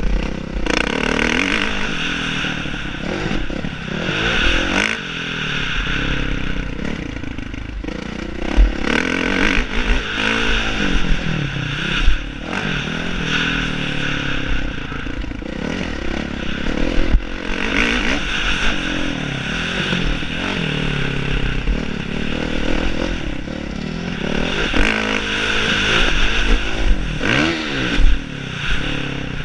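Motocross bike engine revving up and falling back again and again as it is ridden, over a constant low rumble, with scraping and clattering and a few sharp knocks.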